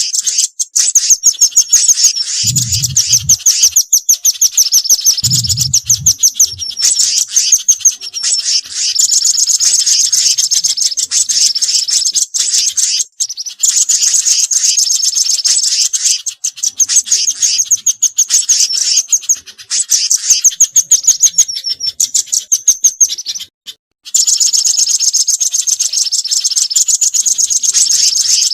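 Bird-lure recording of rapid, high, trilled chip notes repeated in long runs, a mix made to call in velvet-fronted nuthatches and spiderhunters. The runs break off briefly twice, and two short low sounds come in the first few seconds.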